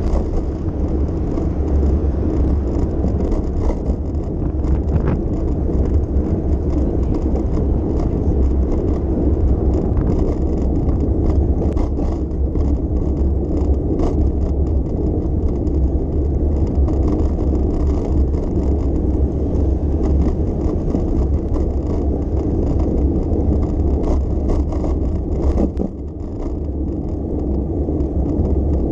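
Steady low rumble of a bicycle ride through city streets: tyre and road noise with wind on the microphone, and scattered small clicks and rattles. The rumble drops briefly near the end.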